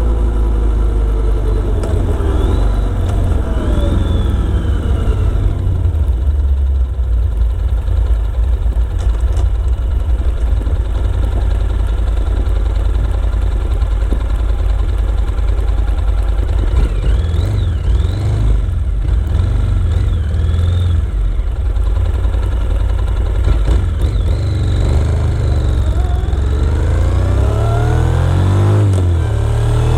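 Motorcycle engine running on the road, its pitch falling as the bike slows in the first few seconds, a steady low rumble through the middle, then rising as it accelerates over the last few seconds.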